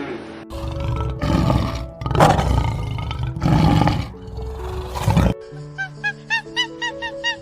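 A large animal roaring in a series of about five loud, rough bursts over background music. The roars stop a little past five seconds in, leaving only the music with light plucked notes.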